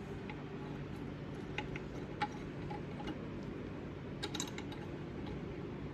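Light metal clicks and clinks of small transmission parts and tools being handled, with a quick cluster of clinks about four seconds in, over a steady low hum.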